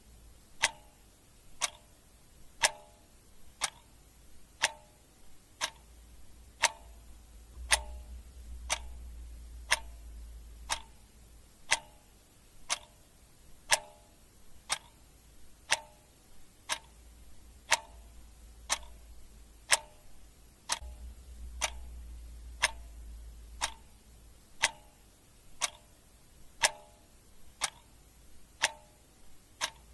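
Clock ticking steadily, about one tick a second, over a faint low rumble.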